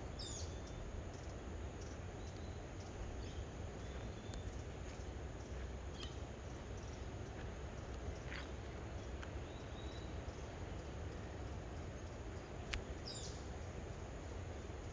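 Outdoor ambience with a steady low rumble, through which wild birds give a handful of short chirps and brief gliding calls, spaced out over the whole stretch, with a few faint clicks.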